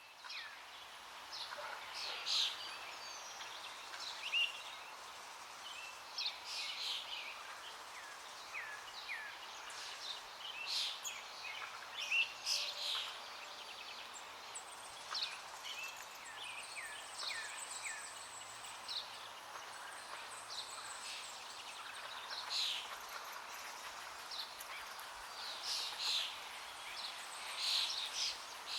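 Several birds chirping and calling throughout, short repeated chirps and falling whistles, over a steady background hiss of outdoor ambience.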